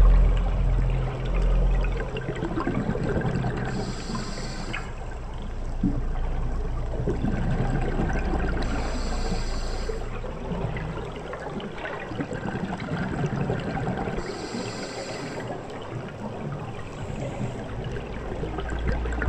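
Underwater sound of a scuba diver breathing through a regulator: a hiss about every five seconds, with bubbling and gurgling in between.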